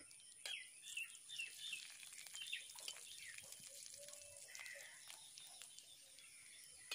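Nuts frying in oil in a metal kadai, a faint sizzle with scattered crackles, while birds chirp in the background.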